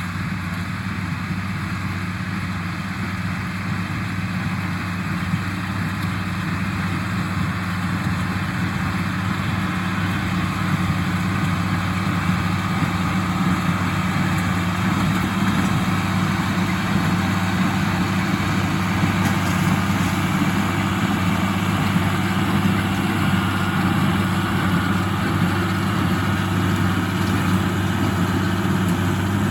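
1977 International Harvester 886 tractor's six-cylinder diesel engine running steadily while pulling a John Deere 348 square baler, growing a little louder over the first ten seconds.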